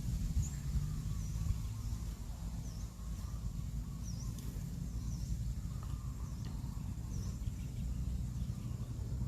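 Short, high bird chirps, about one a second, over a steady low rumble.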